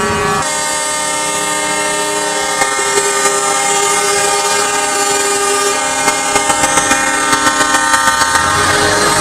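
Truck air horn blowing one long, steady blast at several pitches at once, with a rapid run of sharp clicks near the end.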